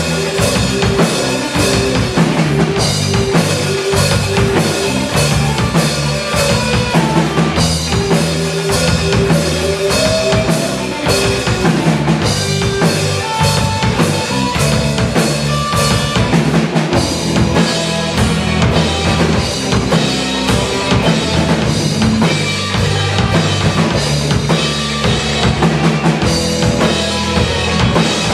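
Live band playing an instrumental solo section of a song over a steadily pounding drum kit, with bass drum and snare.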